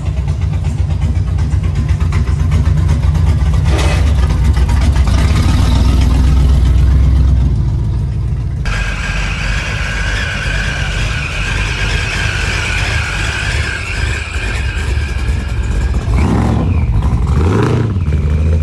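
A car engine running loudly close by with a deep, steady rumble. Near the end its pitch rises and falls briefly as it is revved.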